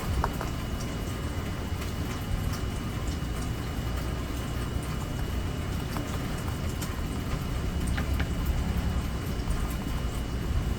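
Steady rainfall with scattered drips and small taps, over a constant low rumble.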